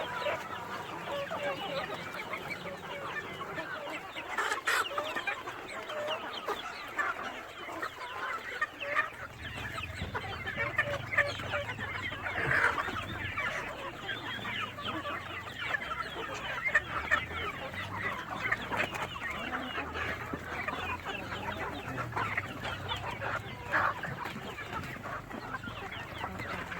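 A flock of free-range village chickens (ayam kampung) clucking continuously, many short calls overlapping. A low steady hum joins underneath about a third of the way in.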